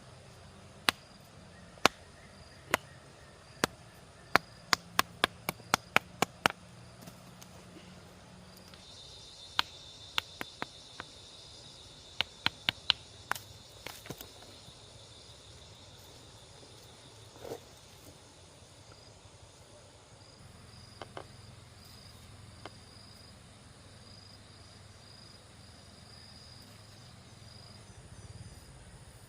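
Sharp knocks or taps, first about one a second, then quickening to two or three a second before stopping about six seconds in; a second, looser run follows around ten to fourteen seconds in. Insects chirr steadily in the background.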